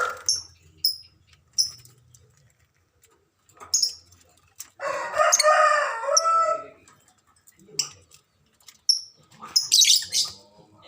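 Lovebirds giving short, high chirps again and again, with a longer, louder and lower call from another bird about halfway through, and a harsh burst near the end.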